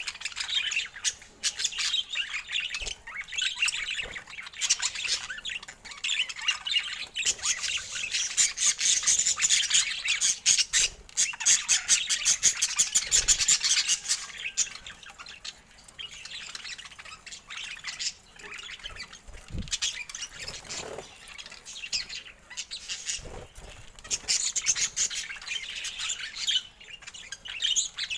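Budgerigars chattering and squawking in a dense, fast warble that eases off for a while in the middle and picks up again near the end.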